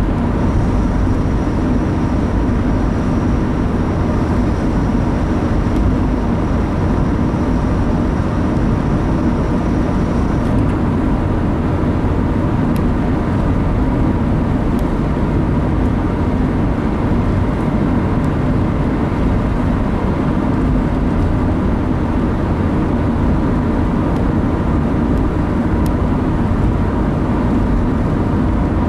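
Steady road noise of a car driving at speed, heard from inside the cabin: a constant low rumble of engine and tyres. A faint high whine stops about ten seconds in.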